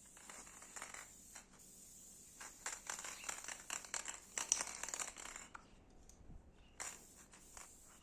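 Faint scraping, rustling and small irregular clicks of hands working with tools or materials, busiest in the middle few seconds, over a faint steady hiss.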